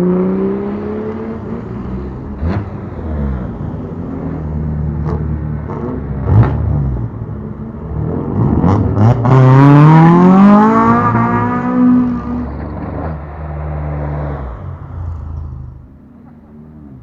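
A modified car's engine revving through a loud exhaust, dropping back, then climbing hard about halfway through, with several sharp cracks along the way. It fades away near the end.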